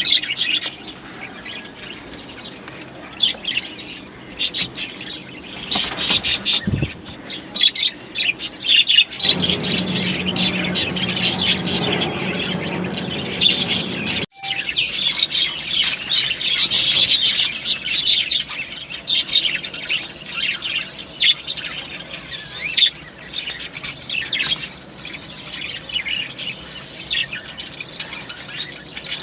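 Pet budgerigars chirping and chattering, a constant stream of quick high chirps. A steady low hum runs underneath for several seconds in the middle, and the sound cuts out for an instant about fourteen seconds in.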